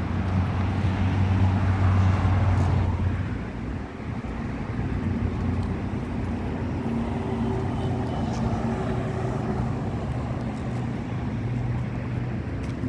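Road traffic hum: a vehicle passes loudly over the first three seconds and fades at about three and a half seconds. A steady, lower motor hum follows.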